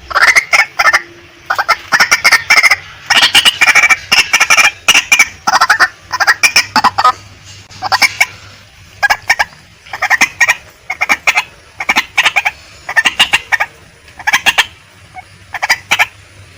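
Female white-breasted waterhen calling: harsh, rapid stuttering phrases repeated about once a second, each a quick run of notes.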